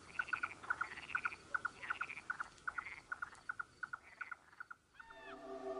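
Night-time chorus of small calling animals: short chirps repeated rapidly and evenly, several a second, with softer higher calls about every half second. It fades out near the end as held musical tones come in.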